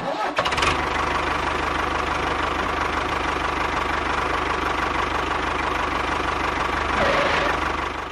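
An engine running steadily at idle, with fast even pulsing underneath and a steady whine; it starts abruptly and cuts off at the end.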